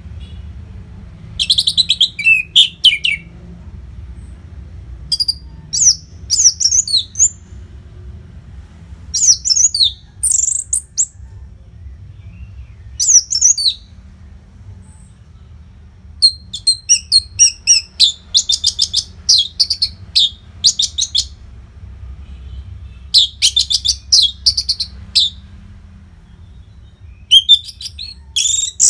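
Orange-headed thrush (anis merah) singing a busy, varied song in phrases of a second or two with short gaps, some of them fast trills. A faint low hum runs underneath.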